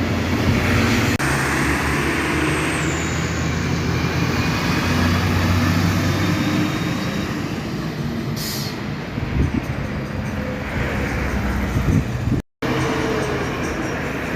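Large diesel truck engine running steadily, with a short sharp hiss of air about eight and a half seconds in. The sound drops out for a moment near the end.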